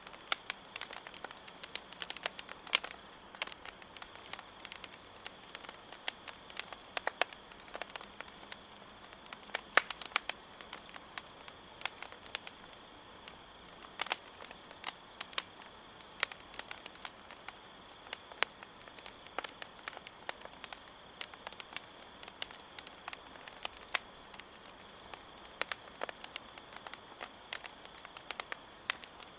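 Wood campfire crackling, with irregular sharp pops several times a second, over a steady high chirring of crickets.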